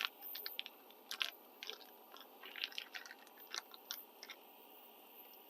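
Quick, irregular clicks and scrapes of a utensil against a pan as food is stirred during cooking.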